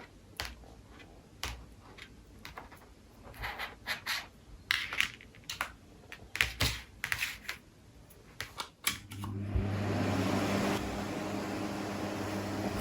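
Irregular clicks and knocks of a small plastic USB mini fan being handled, then about nine seconds in the fan starts and runs steadily: a motor hum under a rush of air. Its level eases slightly a couple of seconds after it starts.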